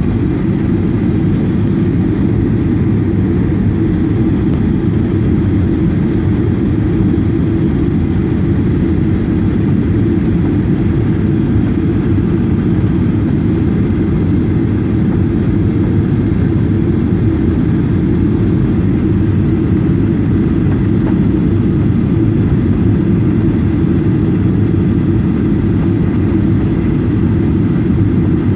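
Steady low drone inside the passenger cabin of a Boeing 737-800 in flight: the CFM56-7B engines and the airflow over the fuselage, unchanging throughout.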